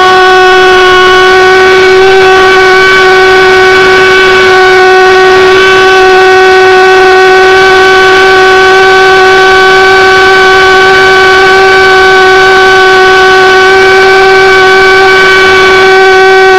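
Mini propane-fuelled thermojet (a valveless pulsejet) running steadily: a loud, even buzzing drone held at one pitch with many overtones.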